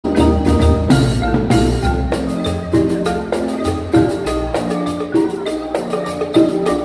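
Guatemalan marimba ensemble playing, with many quick mallet strikes on the wooden bars over a deep bass line and drums.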